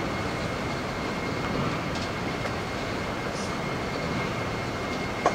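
Freight train cars rolling slowly through the yard: a steady rolling noise with a faint thin whine above it, a light click about two seconds in and a sharper click near the end.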